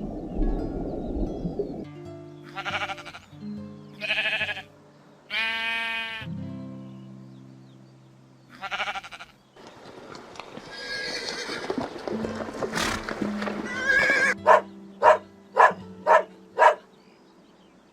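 Background music with farm-animal calls over it: several separate drawn-out bleat-like calls in the first half, then five short sharp calls in quick succession near the end.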